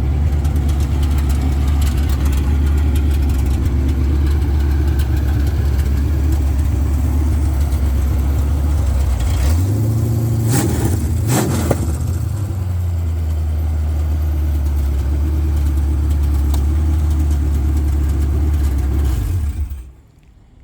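Ford Mustang coupe's stock engine idling steadily. About ten seconds in it is blipped up twice and falls back to idle, and it shuts off shortly before the end. Its timing was set by ear with no timing light.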